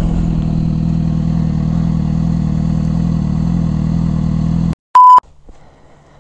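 Harley-Davidson Fat Bob motorcycle's V-twin engine running at a steady cruise. It cuts off abruptly near the five-second mark, followed by a short, very loud single beep tone and then a faint low hum.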